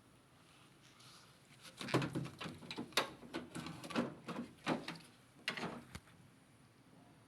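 A run of irregular knocks and clicks, as of hard parts being handled and knocked together, starting about two seconds in and stopping about a second before the end.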